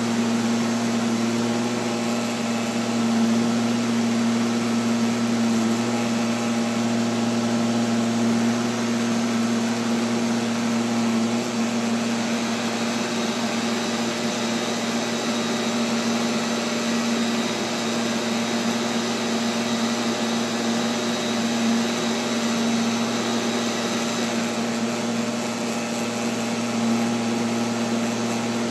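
Neato XV-11 robotic vacuum cleaner running, a steady motor hum over an even whirr, heard close up from a camera mounted on the machine.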